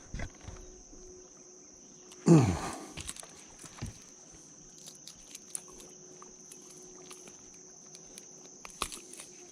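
Insects buzzing steadily at a high pitch, with scattered light clicks and knocks. About two seconds in, a short, loud vocal sound slides down in pitch.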